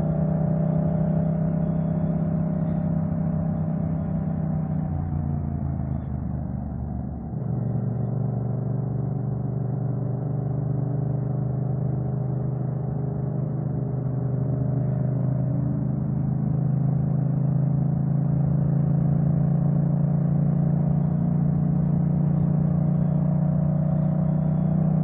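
Motorcycle engine running under way. The engine note falls and dips briefly about seven seconds in, then holds a steady pitch.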